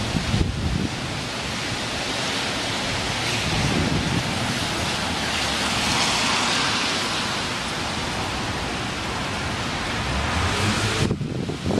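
Tropical-storm wind gusting hard, a broad rushing noise that swells in the middle and eases, with gusts buffeting the microphone. The sound drops away sharply just before the end.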